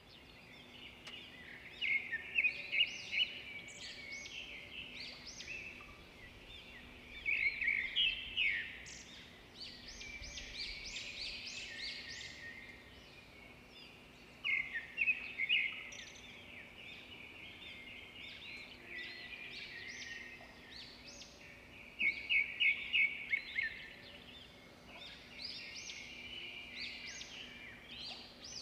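Wild birds calling in about five loud bouts of quick high notes, a few seconds apart, over a faint steady low hum.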